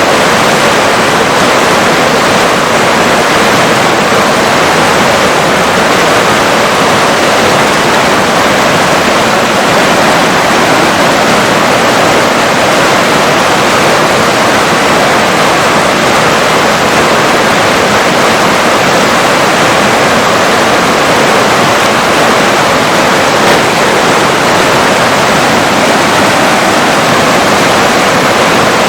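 River water rushing in a steady, even roar of flowing water, unchanging throughout.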